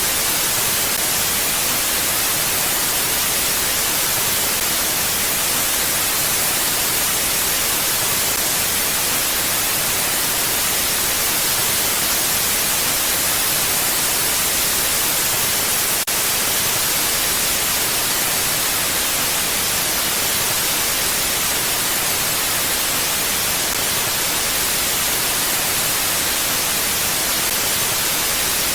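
Steady wind noise: an even, bright hiss that holds the same level throughout without gusts, with a brief tick about halfway through.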